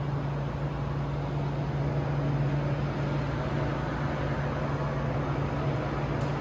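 Steady low hum over a dull rumble from a KTX-Eum electric train standing at the platform.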